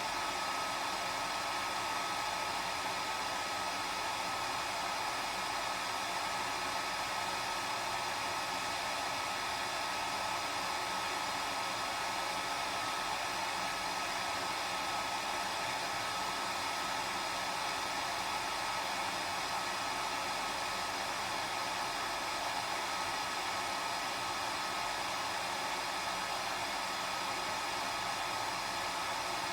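Hair dryer running continuously: a steady rush of air with a constant motor whine on top, unchanging throughout.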